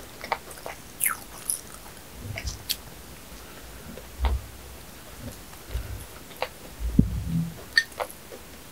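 Close-miked chewing and biting of sugar-dusted bread, with sharp wet mouth clicks scattered throughout and several short low thuds.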